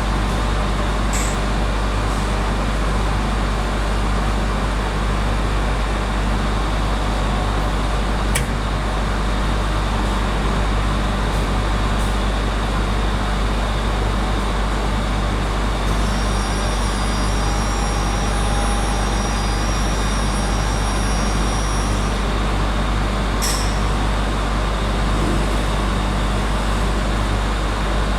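Steady, loud drone of industrial machinery with a deep hum. Two short hisses of air cut in, about a second in and again near the end, with a sharp click in between and a thin high whine for several seconds after the middle.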